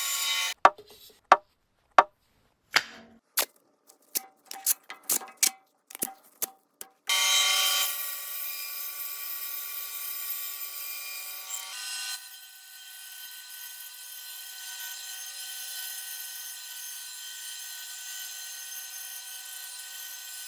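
A power tool works wood. Its motor runs with a steady tone, broken for several seconds by a series of sharp separate knocks and taps on wood. Then the tool runs steadily again, dropping to a quieter level partway through.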